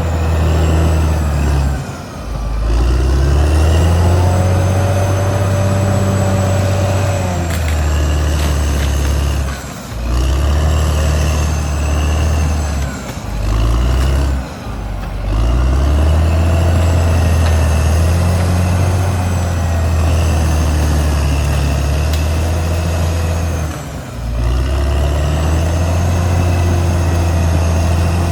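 Caterpillar D6R XL bulldozer's diesel engine working steadily, with a higher whine that rises and falls. The engine sound drops away briefly about five times, around 2, 10, 13, 14 and 24 seconds in, and comes back each time.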